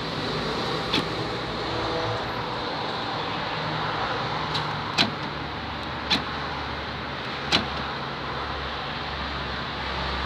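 Car door lock mechanism clicking: five sharp, separate clicks spread unevenly over several seconds, over steady background noise.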